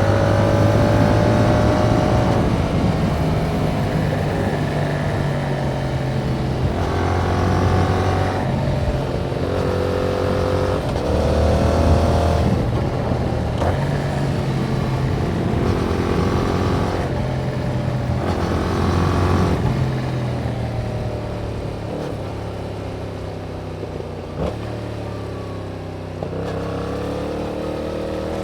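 Yamaha MT-07's 689 cc parallel-twin engine through its stock exhaust, accelerating up through the gears with the pitch climbing and dropping at each shift every few seconds. Past the middle it eases off and runs lower and quieter for several seconds, then pulls up again near the end.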